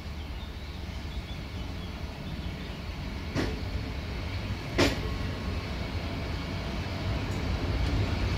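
Passenger train rolling along the track: a steady low rumble of wheels on rails that slowly grows louder, with two sharp knocks about a second and a half apart, the second louder.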